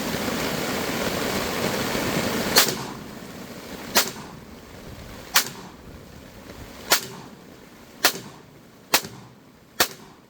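Seven pistol shots from a 1911 fired one at a time, about a second and a half apart at first and coming quicker toward the end. Before the first shot, steady rain drums on a tarp overhead.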